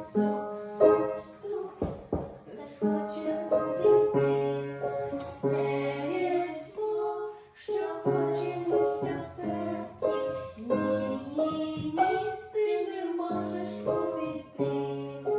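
A children's Christian song: a singing voice with piano or keyboard accompaniment.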